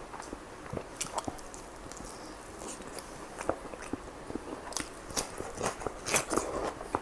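Close-up mouth sounds of a person biting and chewing chicken kalmi kebab: a run of small clicks, busiest and loudest about five to six and a half seconds in.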